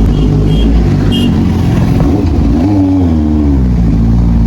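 Motorcycle engine running under way. It revs up about two and a half seconds in, then drops back.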